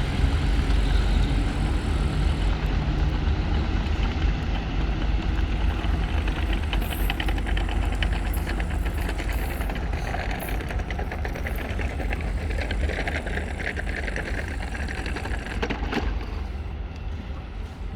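ChME3 shunting diesel locomotive's engine running with a steady low rumble, with a stretch of fast rattling clicks in the middle and the sound slowly getting quieter toward the end.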